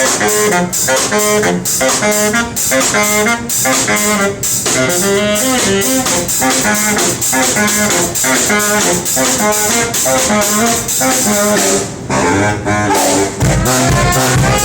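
Live brass band with saxophone and drums playing an upbeat tune: the horns play short, punchy rhythmic stabs, break off briefly near the end, then a heavy bass line comes in under a rising horn line.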